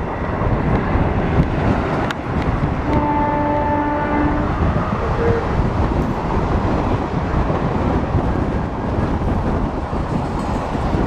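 A moving train rumbling steadily along the track. A horn sounds once for about a second and a half, about three seconds in.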